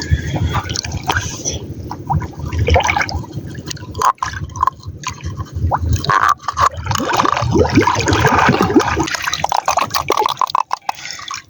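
Water sloshing and dripping, with many irregular clicks and knocks over a low rumble.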